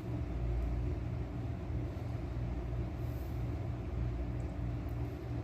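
Steady low mechanical hum that throbs evenly a few times a second, like a motor or compressor running.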